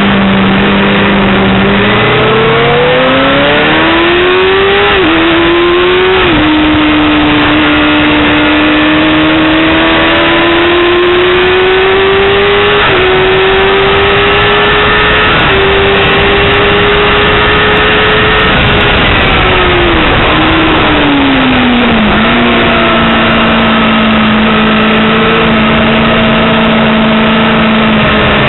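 Yamaha R6 (5EB) 600cc inline-four sport bike engine under hard acceleration, with the revs climbing and dropping sharply at each upshift, several times. About two-thirds of the way through the note falls away as the bike slows, then it holds at a steady lower pitch.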